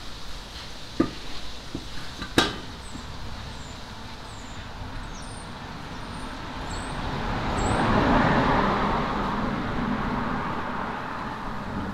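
Two sharp knocks, then a road vehicle passing by, its noise swelling to a peak and fading away. Faint bird chirps come through in the background.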